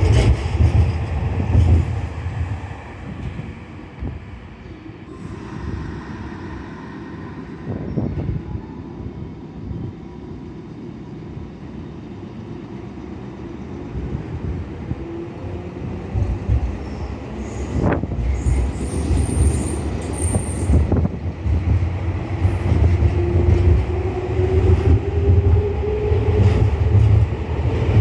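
Nankai Koya Line electric train running at a station: a heavy rumble of wheels and motors dies down after a few seconds, then builds again. A brief high squeal comes about two-thirds of the way in, and a motor whine rises in pitch near the end.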